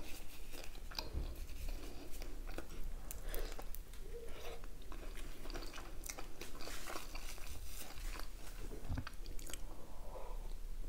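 Close-up chewing of a bite of homemade chicken shawarma in soft lavash: steady wet mouth sounds with many small clicks.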